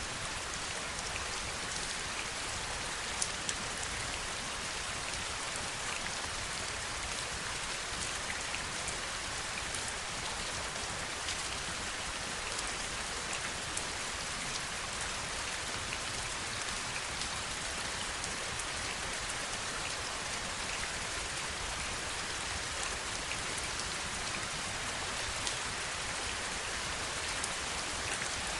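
Steady heavy rainfall, an even hiss with scattered sharper drop taps on a hard surface.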